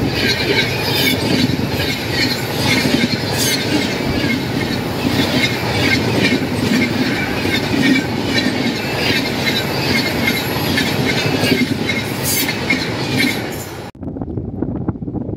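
Passenger train coaches running past close by: a loud, dense rumble and rattle of steel wheels on the rails. It cuts off abruptly about a second and a half before the end, giving way to a quieter wind-like noise.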